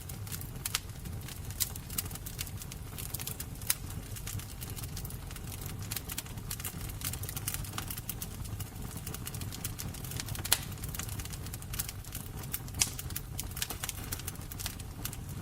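A fire burning with a steady low roar and irregular crackles and pops, a few sharper pops standing out, the loudest about ten seconds in.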